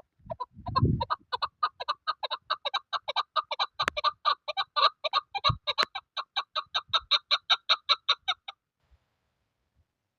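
Chukar partridge calling: a fast, even run of short clucking notes, about six a second, that goes on for about eight seconds and stops well before the end.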